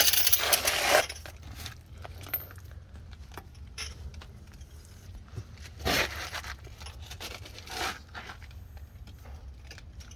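Torque wrench and socket clinking and rattling as they are worked on a shock absorber's top mounting bolt. The clatter is loudest for about the first second, then turns to scattered clicks, with a short louder scrape about six seconds in and another near eight seconds.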